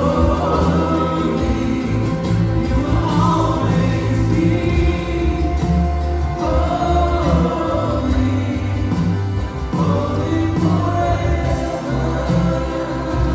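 Congregational worship music: a gospel choir or group of voices singing with band accompaniment over a steady bass.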